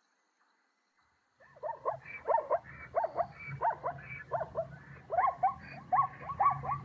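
Zebra calling: a string of short, yelping barks, about two a second, starting about a second and a half in.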